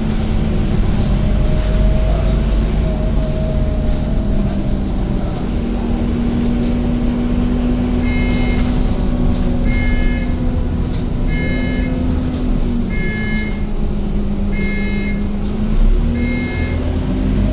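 Scania K230UB bus's diesel engine running with a steady rumble, its pitch shifting a couple of times. About halfway through, a repeating electronic warning beep starts and sounds roughly every second and a half.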